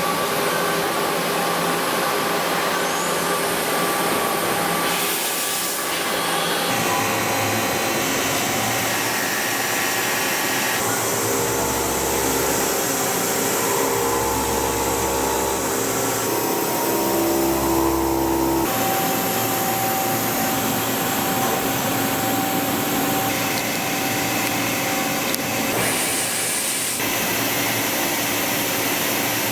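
Doosan PUMA SMX2600ST multitasking turning center machining: a steady hiss with several steady whining tones. The pitch and mix change abruptly every few seconds.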